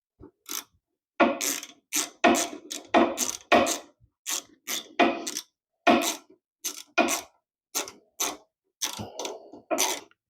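Hand ratchet clicking in short, irregular strokes, about fifteen over ten seconds, as fasteners are run down while a snowblower carburetor is reinstalled.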